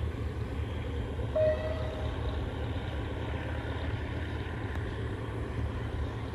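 Steady low rumble of a diesel-hauled passenger train pulling away into the distance. A brief higher tone sounds about a second and a half in.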